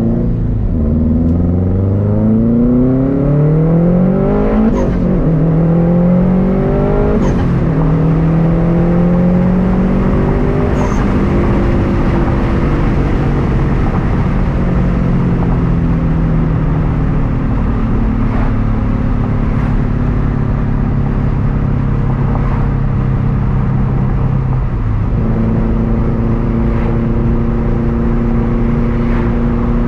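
Subaru WRX STI's turbocharged flat-four with a Tomei unequal-length exhaust, accelerating hard through three gear changes, with a short hiss from the turbo system at each shift. It then cruises with the engine note slowly falling, and the note steps up again near the end.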